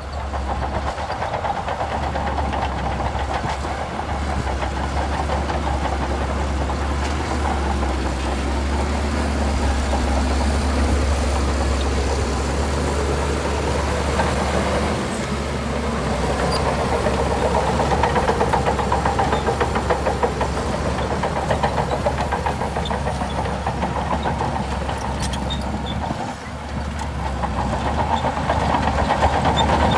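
Bulldozer's diesel engine running steadily under load, with a deep hum and a rough clattering rumble; the level drops briefly about halfway through and again near the end.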